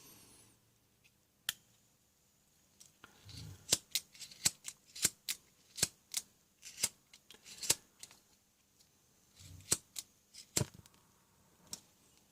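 A gas (butane) soldering iron's piezo igniter clicking over and over, some fifteen to twenty sharp clicks at irregular intervals, thickest in the middle of the stretch, as it is tried for lighting.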